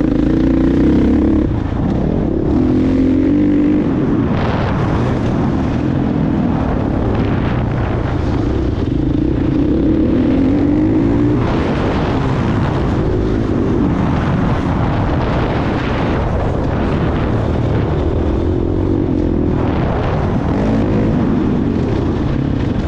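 Motocross bike engine running hard, revving up and dropping back again and again as the throttle is opened and closed.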